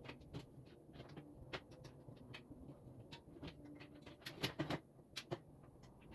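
Irregular light clicks and knocks of parts being handled during assembly of a flat-pack work table, with a brief flurry of louder knocks a little past four seconds in.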